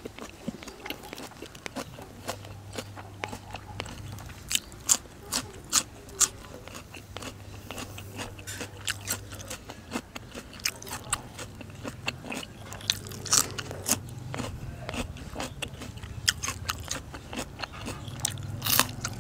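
Close-miked biting and chewing of crisp raw vegetables: repeated sharp crunches with wet chewing between them.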